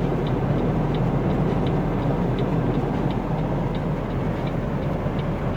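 Steady engine and road rumble heard from inside a vehicle's cabin while driving through a blizzard, with faint light ticks a few times a second.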